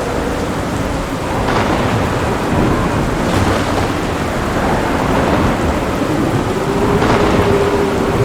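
Heavy steady rain with thunder rumbling through it, and a few brief sharper crackles about one and a half, three and seven seconds in.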